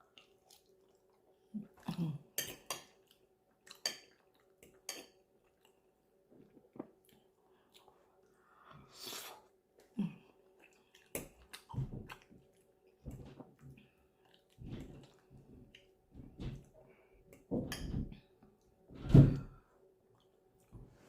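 Close-up chewing of spicy Korean rice cakes (tteokbokki), with a few sharp utensil clicks against the dish in the first seconds, then repeated chewing from about halfway on.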